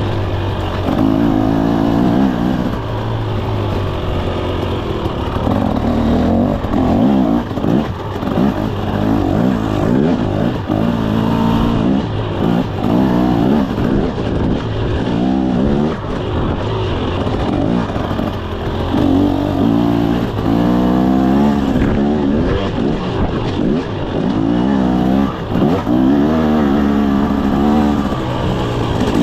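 Single-cylinder two-stroke engine of a 2024 KTM 300 SX dirt bike under way on a trail, revving up and backing off the throttle over and over, its pitch rising and falling every second or two.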